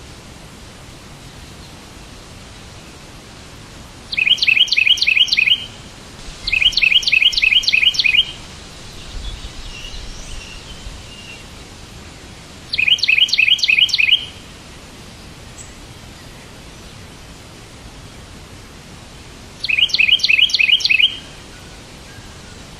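A bird chirping in four short bouts, each a quick run of repeated high notes, over a steady background hiss.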